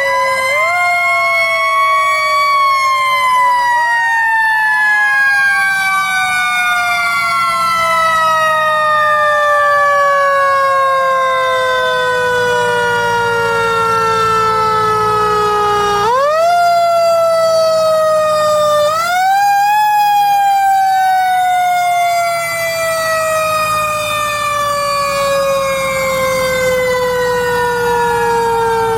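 Several fire truck sirens wailing together. Each siren jumps up in pitch quickly, then winds down slowly over many seconds, and fresh rises come in about 4, 16 and 19 seconds in. A low engine hum runs underneath.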